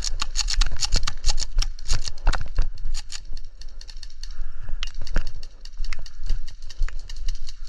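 Rapid strings of sharp clicks from airsoft guns firing, densest in the first few seconds and then more scattered.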